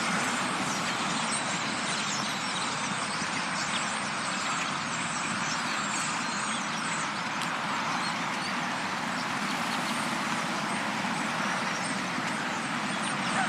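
A large flock of birds calling all at once, a dense, unbroken chatter of many small calls, over a low hum of traffic.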